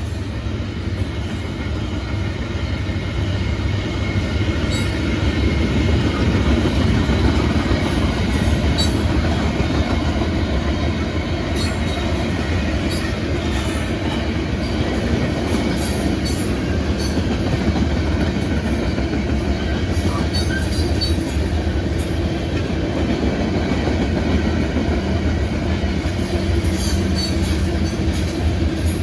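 A loaded Union Pacific rock train rolling past at speed: a steady heavy rumble with wheel clatter on the rail joints and scattered short high squeaks, swelling over the first few seconds and then holding.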